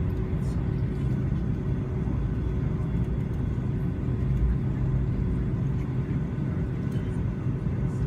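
Steady cabin noise inside a Boeing 757-200 airliner: jet engine and airflow rumble heard from a window seat, with a constant low hum and a faint steady tone over it.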